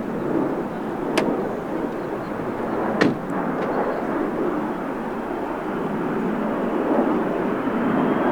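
Airbus A400M's four turboprop engines running in a steady rumble, with two sharp clicks about one and three seconds in, the second the louder.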